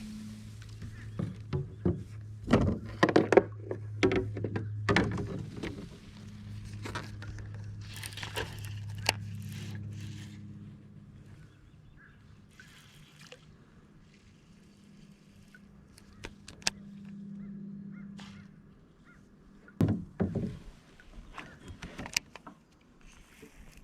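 Hollow knocks and thunks against a plastic fishing kayak's hull, in a cluster over the first few seconds and again near the end. Under them runs a steady low engine drone, most likely a boat motor, which drops away after about eleven seconds.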